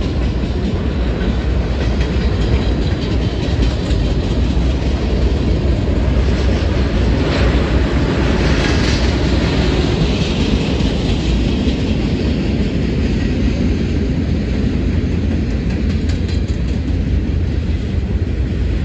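Union Pacific freight train's cars rolling past: a steady loud rumble of steel wheels on rail with clickety-clack over the joints, the higher clatter and hiss swelling for a few seconds near the middle.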